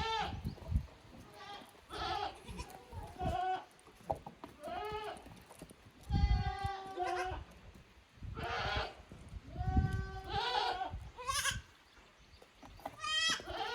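Goats bleating over and over: about ten separate calls at two or more different pitches, with a few low thumps among them.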